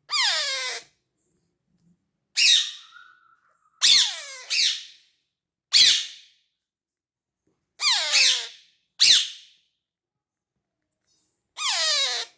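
A parrot chick about 25 days old calling: about eight short, squawking calls, each falling in pitch, with pauses between them.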